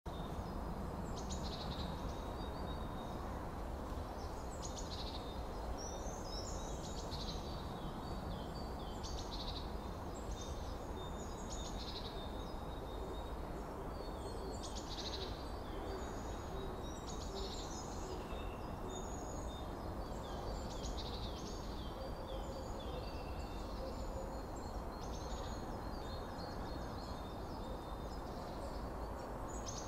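Small birds chirping in short repeated calls every second or two, over a steady low outdoor background rumble.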